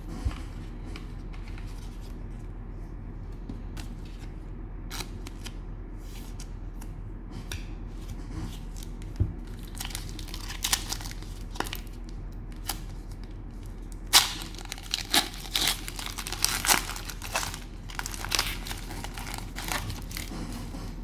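Cellophane wrapper of a soccer trading-card cello pack being torn open and crinkled. Scattered crackles grow dense about two-thirds of the way through, over a steady low hum.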